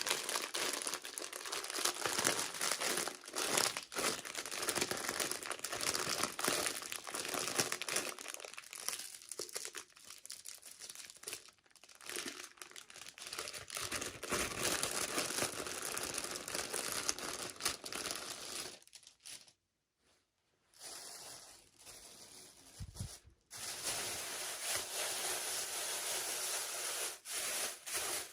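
Toy packaging crinkling and tearing as it is opened by hand, with dense, irregular crackle that drops out briefly twice in the latter part.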